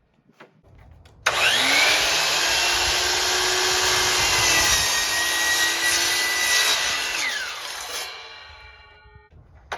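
Power saw starting about a second in, spinning up quickly and running steadily for about six seconds through half-inch plywood, then switched off and winding down with a falling pitch. A short click near the end.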